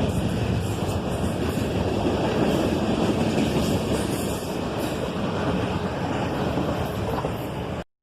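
Freight train rolling past: a steady rumble of wheels on rail with faint clicking, which cuts off suddenly near the end.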